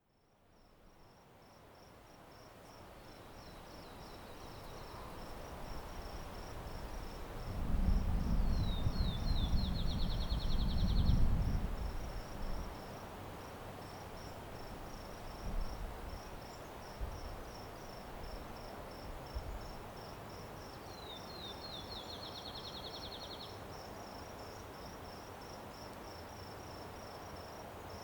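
Outdoor nature ambience fading in, with a cricket chirping in a steady, even pulse throughout. A songbird twice sings a short phrase of a few falling notes that break into a fast trill. A loud low rumble runs for a few seconds early in the middle.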